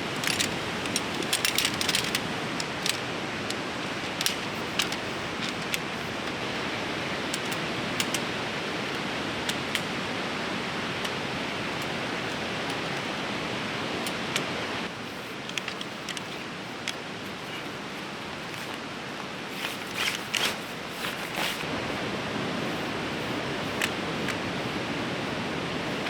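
Steady rush of a loud, fast-flowing river, with scattered clicks and rustles of tent gear being handled during setup, busiest near the start and again about 20 seconds in.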